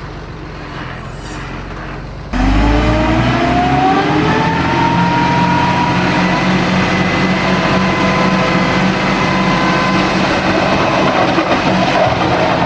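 Heavy diesel engine of earthmoving machinery running low, then about two seconds in it jumps sharply louder and its pitch rises over a couple of seconds, settling into a steady high-revving note with a whine on top.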